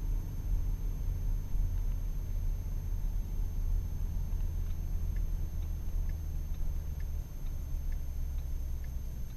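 Ford Mustang's engine and road noise heard inside the cabin while cruising, a steady low rumble. About seven seconds in the engine note steps lower.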